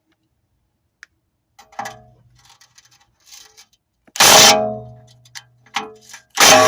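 Two loud strummed guitar chords, each struck suddenly and left to ring out, the second about two seconds after the first, preceded by a faint click and a softer note.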